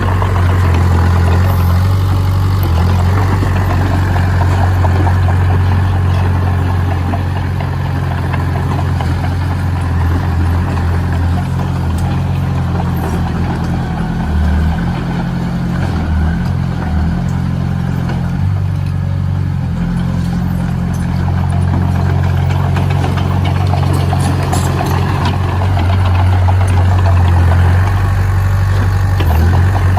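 Engine of heavy earthmoving machinery running steadily, a loud low drone that shifts a little in pitch and load around the middle.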